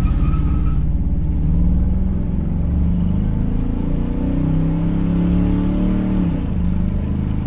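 The 6.6-litre (400 cu in) Ford V8, with a four-barrel carburettor and true dual exhaust, is heard from inside the cab accelerating at full throttle from a standstill. The engine note climbs, then drops suddenly about six seconds in as the automatic transmission shifts up.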